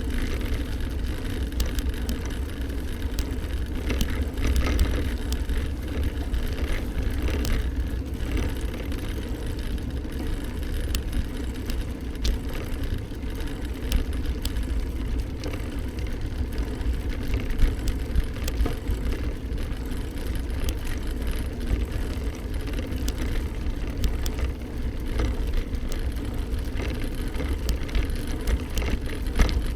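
Steady low wind rumble on the microphone and road noise from riding a bike, with scattered small clicks and rattles.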